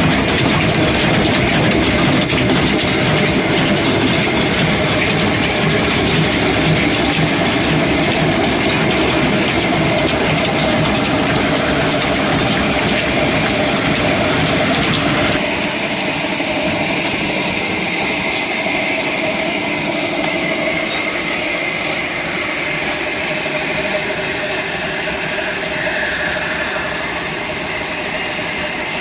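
Old 26 hp, 300 RPM stationary engine running steadily with a loud hiss. About halfway through the low rumble falls away, leaving mostly the hiss.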